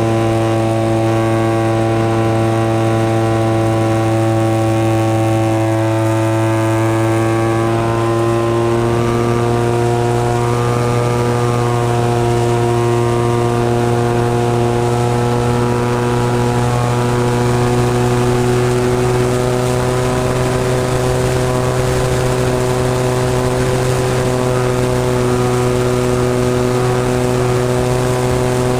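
The SV Hobbies 26cc two-stroke gas engine of a Seagull Spacewalker 120 model airplane, running steadily with its propeller. Its pitch rises a little about a third of the way in and then holds.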